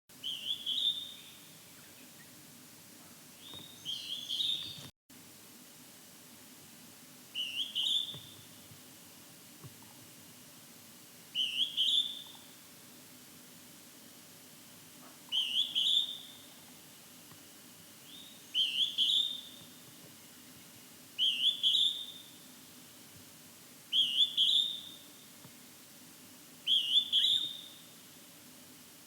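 Northern hawk-cuckoo (jū-ichi) calling: a high, whistled two-note phrase repeated about every three to four seconds.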